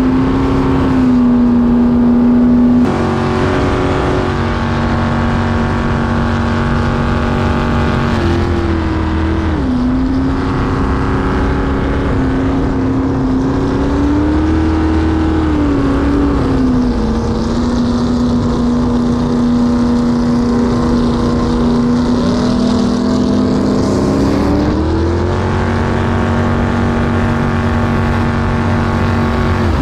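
Jet boat's Chevrolet V8 engine running steadily, its pitch stepping and gliding up and down several times as the throttle is eased on and off.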